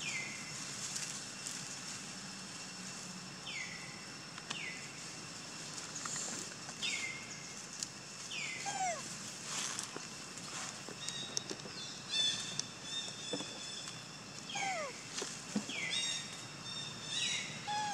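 Outdoor ambience with birds calling: short falling whistled calls, repeated every few seconds, over a faint steady high-pitched tone.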